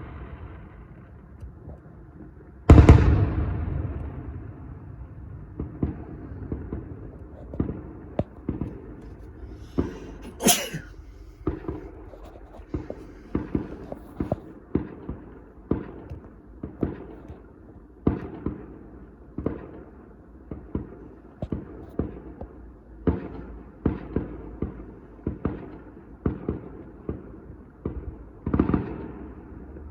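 Fireworks going off: one loud bang about three seconds in, then a long run of smaller bangs and pops, roughly one or two a second, with a brief high whistle near the middle and another larger bang near the end.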